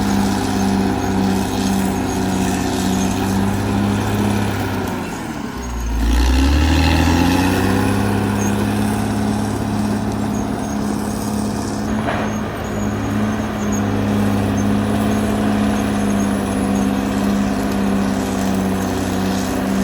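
Caterpillar D6R XL bulldozer's diesel engine running under load. Its pitch sags briefly about five seconds in, then climbs back and runs louder and steady.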